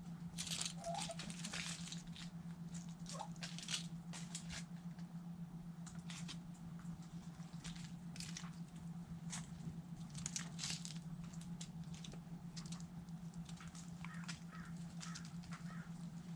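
Chickens pecking at food scraps: irregular sharp pecks, taps and crunches, with a few faint short clucks. A steady low hum runs underneath.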